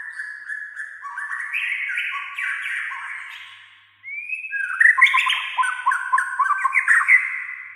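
White-rumped shama (murai batu) singing: a fast run of varied whistled notes that fades out after about four seconds, then a louder phrase that opens with a rising whistle and carries on as a rapid string of notes, trailing off at the end.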